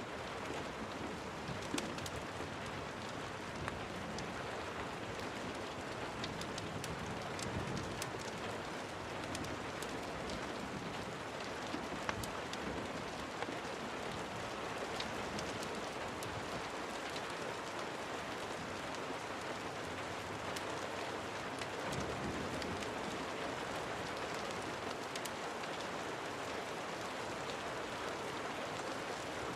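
Steady rain falling, an even hiss with scattered sharp ticks throughout.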